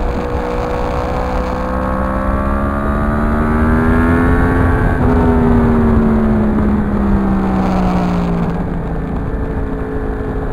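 2009 Yamaha R1 crossplane inline-four running through a custom exhaust. Its engine note climbs steadily for about five seconds as it accelerates, then falls away for the next few seconds as it eases off, over a steady low rush of noise.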